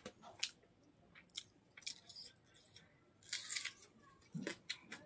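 Close-miked mukbang eating sounds: wet mouth clicks and chewing of chicken gizzard curry and rice, with fingers squishing rice on a banana leaf. There is a short crunchy stretch about three and a half seconds in.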